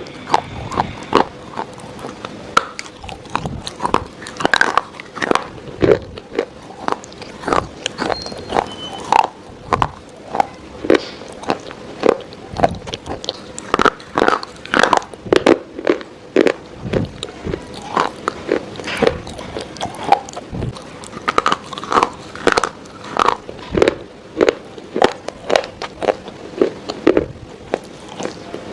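Close-miked ASMR eating: repeated crunchy bites and chewing, a sharp crunch roughly every second, irregularly spaced.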